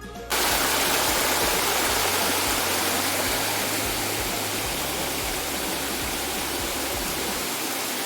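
Steady rush of water from a rocky waterfall cascade. It starts abruptly right at the beginning.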